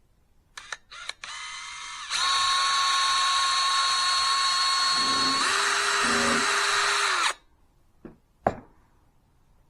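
Power drill blipped twice, run briefly at low speed, then held at full speed for about five seconds with a steady whine that changes partway through, before stopping suddenly. Two sharp knocks follow near the end.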